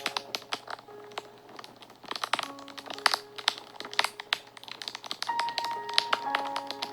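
Wood fire crackling, with irregular sharp pops and snaps, over soft background music of slow held notes.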